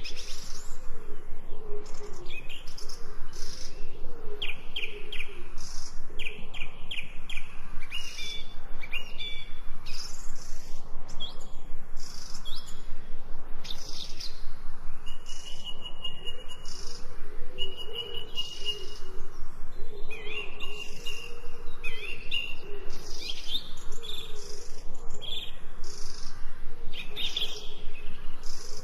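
Several birds chirping and singing in short repeated phrases and trills, over a steady background of falling rain.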